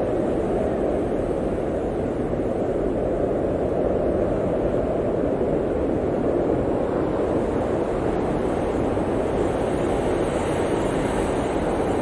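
Steady howl of blizzard wind, a dense low rushing noise with a deep rumble beneath, swelling slightly a few seconds in.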